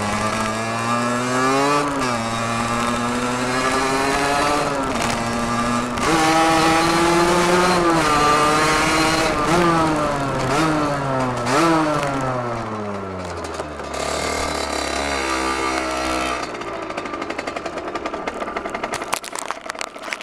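Derbi Senda DRD 50 cc two-stroke single through an open aftermarket sport exhaust, revving up and dropping back sharply several times as the throttle and gears change. Over the last few seconds it drops to a lower, quieter, steadier run, with some quick clicks right at the end.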